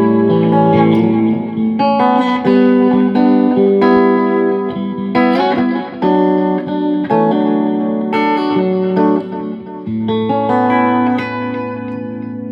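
Electric guitar chords played through the modulated delay channel of a Visual Sound (True Tone) Dual Tap Delay V3 pedal. A new chord comes about every second, with a brief pitch wobble in the middle, and the last chord rings out near the end.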